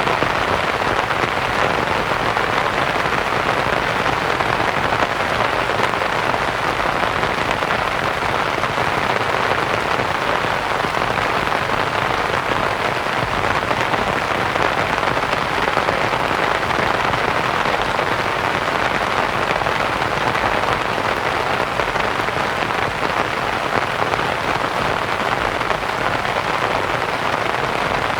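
Steady rain pattering on a canvas tent, mixed with a layer of soft white noise.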